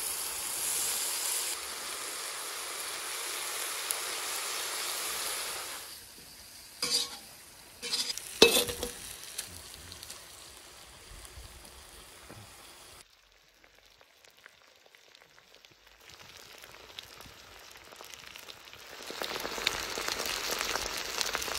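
Cubes of liver, potato and lamb fat sizzling in a hot pot, with a metal slotted spoon clattering and scraping against the pot a few times about seven to eight seconds in. The sizzle drops almost to nothing for a few seconds in the middle and comes back louder near the end.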